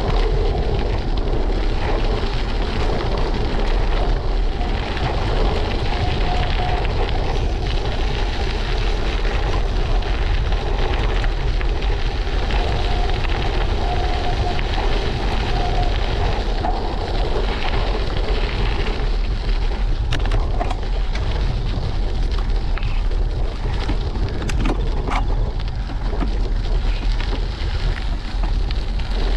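Steady wind buffeting on the microphone of a bicycle-mounted action camera, with tyre noise from riding along a road; a faint whine comes and goes in the first half.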